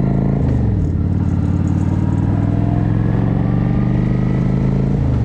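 Motorcycle engine running under way, with a steady note whose pitch drops sharply about half a second in and again near the end.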